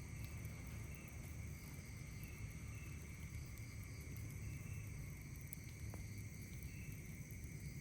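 Night insects, crickets among them, trilling steadily in several continuous high tones, with a short chirp repeating every second or two. A low rumble sits underneath, and a faint sharp click comes about six seconds in.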